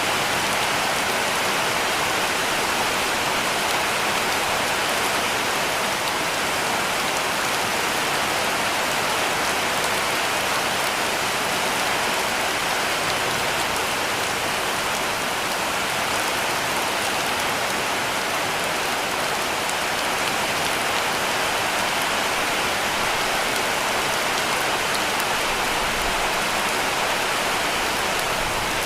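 Heavy rain falling steadily on a cabin roof, a dense even hiss of drops with no breaks or thunder.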